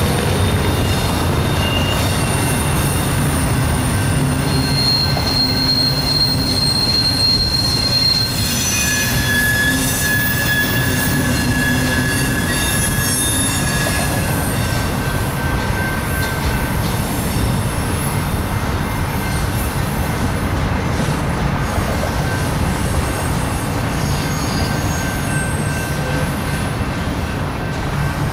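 Double-stack intermodal train's well cars rolling past, a steady rumble of steel wheels on rail. High-pitched wheel squeals come and go over it, the clearest about five to eight seconds in and again around ten seconds in.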